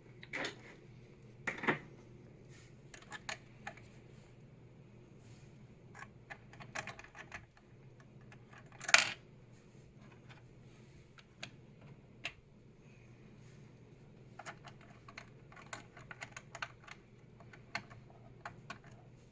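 Light, scattered clicks and taps of small screws and metal mounting hardware being handled and fitted while a CPU cooler is installed on a motherboard. There is one louder click about nine seconds in and a run of quick small clicks near the end, over a low steady hum.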